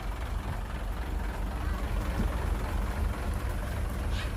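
Heavy diesel earthmoving machinery running steadily, a low engine rumble with no change in pace.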